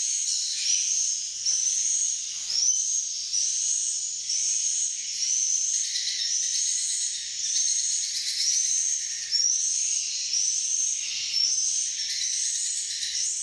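Edible-nest swiftlets twittering: a dense, steady chorus of high chirps repeating in quick succession, several to the second.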